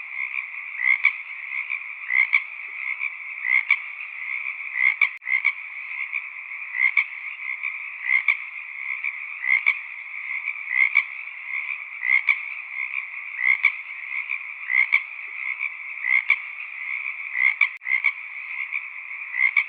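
A chorus of frogs calling steadily. Louder calls stand out from the massed background about every second and a half.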